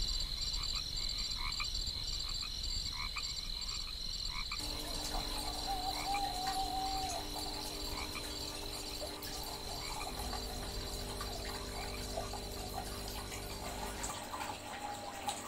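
Chirping insects and croaking frogs as a steady night-time chorus, with a long wavering call about five seconds in. A steady low hum joins about four and a half seconds in.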